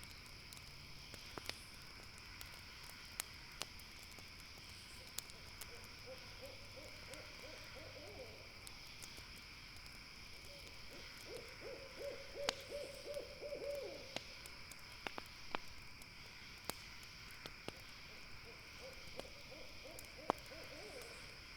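An owl hooting in quick, stuttering series three times, over scattered pops and crackles of a campfire and a steady high-pitched drone of night insects.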